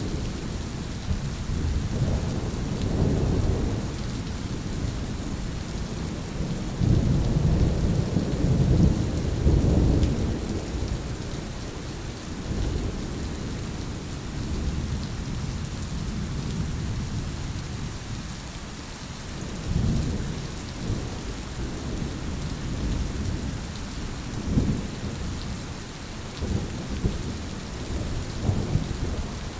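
Thunderstorm: steady rain hissing, with rolling thunder rumbling in several long low swells, the loudest about a third of the way in.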